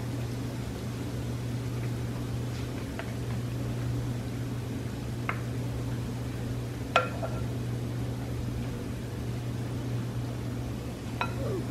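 Battered quail eggs frying in hot oil in a wok: a steady sizzle over a steady low hum, with a few light clicks of a slotted spoon against the pan, the clearest about seven seconds in.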